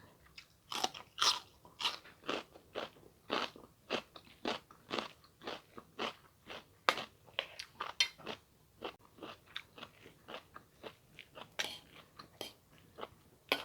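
A person chewing and eating a mouthful of food close to the microphone: a steady run of short, crisp mouth clicks, about two a second.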